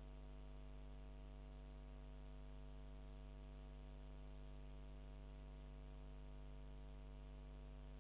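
Faint, steady electrical hum with a stack of evenly spaced overtones and light hiss.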